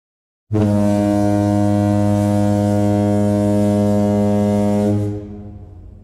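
Ship horn sound effect: one long, deep blast of about four and a half seconds. It stops about five seconds in and leaves a fading echo.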